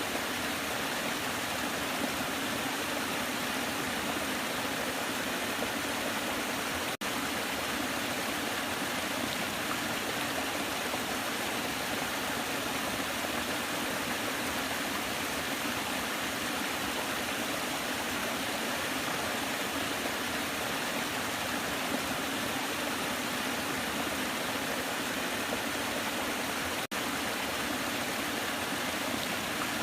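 Waterfall: a steady, even rush of falling water, which twice drops out for a split second.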